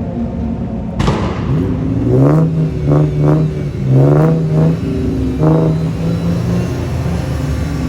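Car engine idling, then revved in about six short throttle blips from around two seconds in, each a quick rise and fall in pitch, before settling back to a steady idle.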